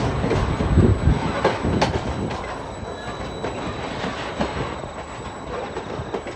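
Empty log wagons of a freight train rolling along the track, the wheels clattering over rail joints in a run of knocks. The sound fades after the first couple of seconds.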